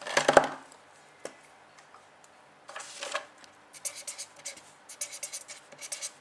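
Handwriting: a pen or marker scratching out a series of quick short strokes, starting with one longer stroke about three seconds in. A short, louder handling knock comes right at the start.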